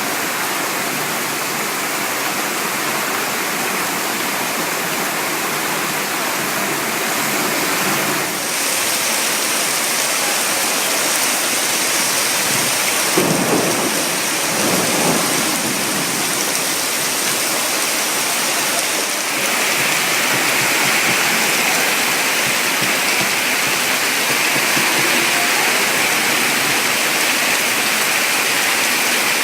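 Heavy rainy-season rain pouring steadily onto a flooded street, a dense hiss. The tone of the hiss shifts twice, about a third and two-thirds of the way through, and a brief lower-pitched swell comes near the middle.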